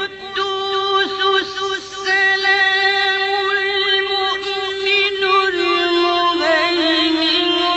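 A man reciting the Quran in a melodic chant, holding long drawn-out notes that waver into ornamented turns near the end.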